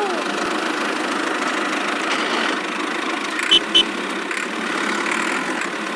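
Small motor of a miniature DIY tractor running steadily, with two short high chirps about three and a half seconds in.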